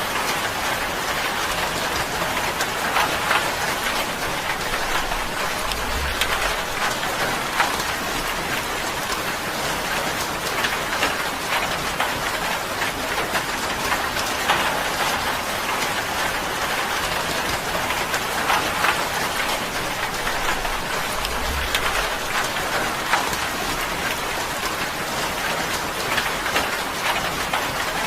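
Steady rain falling on a tin roof: a dense, even patter with many individual drops ticking sharply through it.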